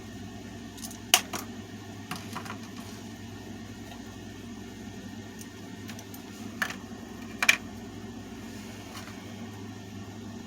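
Sharp metallic clicks and clinks of an adjustable wrench working on the small bolts and nuts of a table-fan motor, a handful spread out, the loudest about a second in and another near seven and a half seconds, over a steady low hum.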